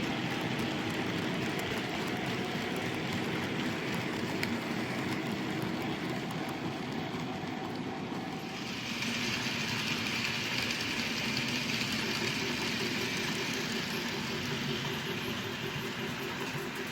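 Train running: a steady rumble with faint steady tones, and a hiss that grows brighter about halfway through.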